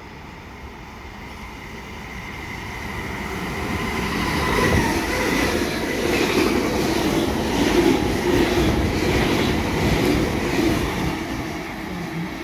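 A train approaching, growing steadily louder over the first few seconds and then running loud and steady as it comes through, with a thin high tone over the rumble of its wheels.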